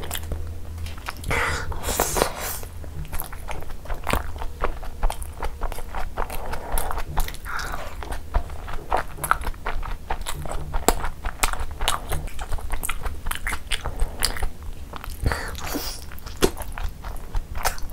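Close-miked chewing and biting of gravy-soaked chicken jhol momos (steamed dumplings), with many quick, irregular wet mouth clicks and smacks.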